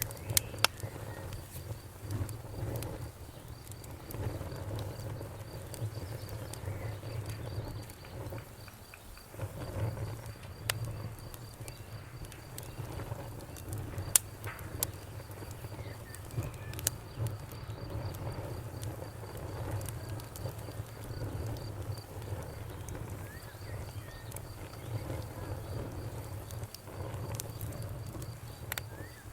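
Wood fire burning in a fireplace, crackling steadily over a low rumble, with scattered sharp pops; one stands out about halfway through.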